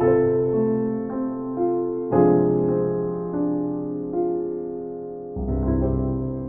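Soft, slow piano music: sustained chords struck about every two to three seconds, each left to ring and fade, with single melody notes in between.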